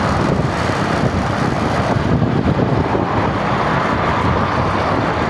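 Steady road noise from a moving vehicle, with wind buffeting the microphone.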